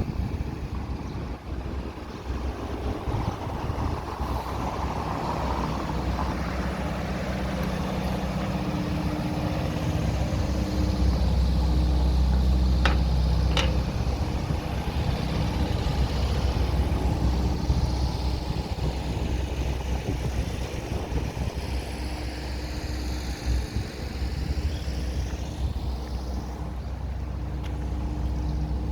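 Street traffic on a main road: cars and a heavier vehicle going by, with a low engine rumble that swells in the middle. A steady hum runs underneath from about a third of the way in, and there are two short sharp chirps about halfway through.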